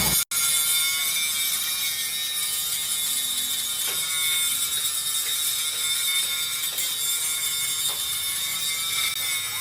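A metalworking machine tool running steadily in a workshop, giving a constant high hiss with a thin steady whine and a few faint clicks.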